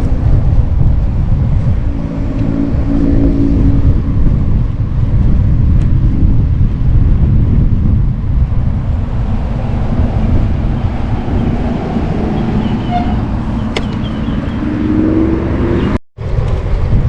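Road traffic heard from a moving bicycle: car engines passing over a steady low rumble of wind and road noise. One car goes by about two to four seconds in and another rises in pitch near the end, then the sound cuts out for a moment.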